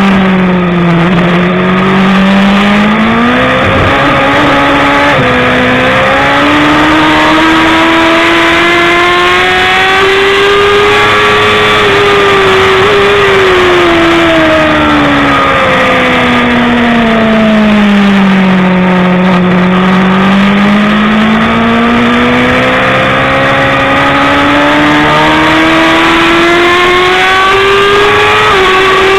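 BMW S1000RR inline-four superbike engine running hard at race pace, loud and high-revving. Its pitch drops low about a second in, climbs steadily for ten seconds, falls away again for several seconds, then climbs once more, with brief steps in pitch along the way.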